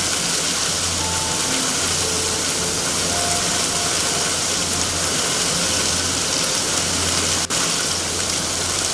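Steady heavy rain, an even hiss with a low, constant rumble underneath. The sound drops out for an instant about seven and a half seconds in.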